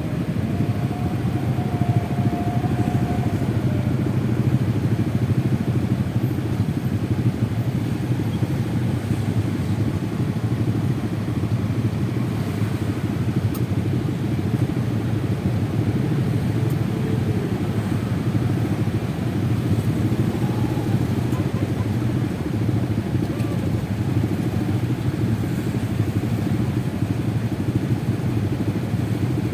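Honda Vario 125 scooter's single-cylinder engine running steadily under way, mixed with a steady low rush of road and wind noise.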